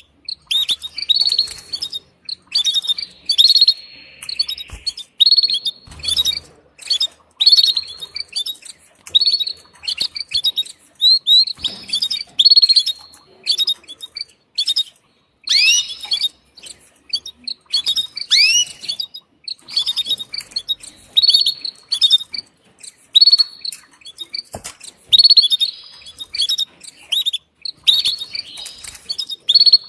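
Female canary giving its mating call to the male: short, high chirps in quick clusters about once a second, some with fast downward-sliding notes.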